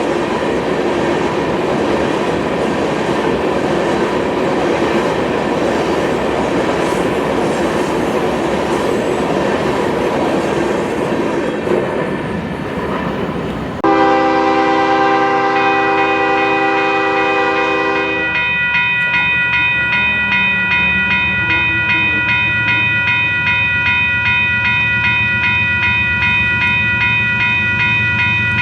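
A freight train rolls past with steady wheel and rail noise. About 14 seconds in, the sound cuts abruptly to a locomotive air horn holding a chord. Near 18 seconds it switches to a second, differently pitched horn chord, which is held to the end.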